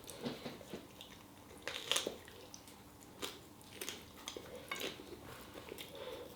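A person chewing food, with scattered soft crunches and clicks.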